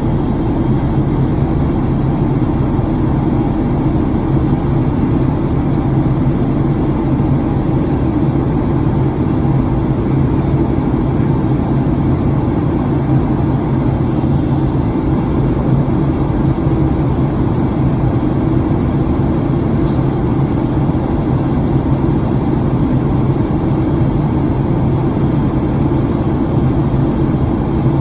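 Steady cabin noise inside a Boeing 737-900ER in flight: a constant low hum from the CFM56 engines and the airflow past the fuselage, with no change through the stretch.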